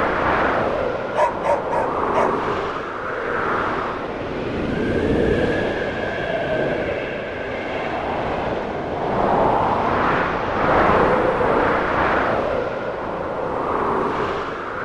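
Snowstorm wind gusting and howling in slow swells every few seconds, with a faint whistling tone in the middle stretch. A few sharp crackles from the stove fire about a second in.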